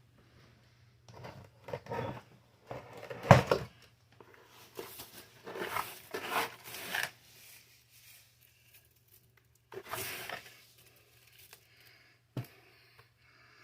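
Irregular rustling and scraping handling noises, with a sharp knock near the end, over a faint steady low hum.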